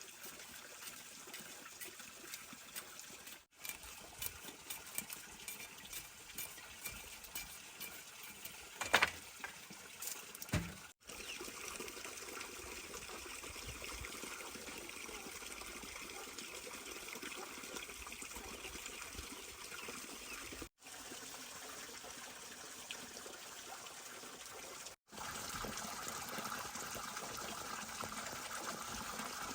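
Running water trickling, heard across several abrupt cuts, with scattered light ticks and two sharper knocks about nine and ten seconds in.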